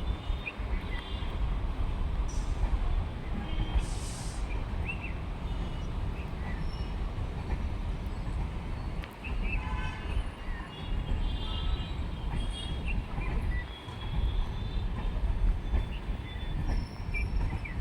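Mahalaxmi Express passenger train running on the rails: a steady low rumble with short high squeaks scattered through it.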